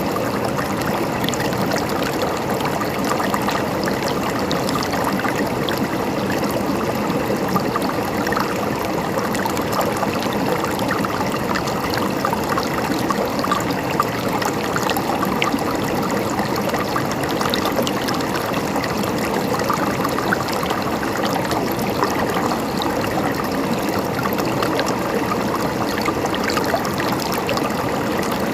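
Shallow river flowing steadily over rocks, a constant rushing with many small gurgles and splashes.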